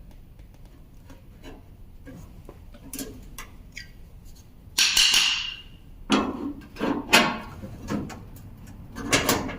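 Small clicks and knocks of things being handled, a hiss lasting about a second halfway through, then several louder knocks.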